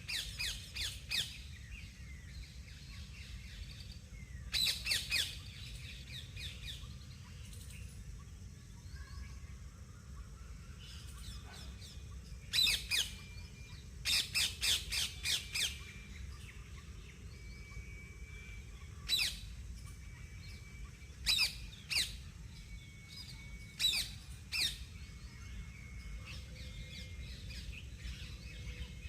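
Birds squawking in harsh bursts of several quick calls, a burst every few seconds, with fainter thin whistled notes in between. A steady low rumble runs underneath.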